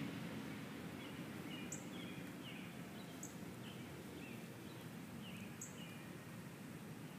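Birds chirping over a steady background hiss: a run of short, downward-sliding chirps, with a thin, very high note about every two seconds.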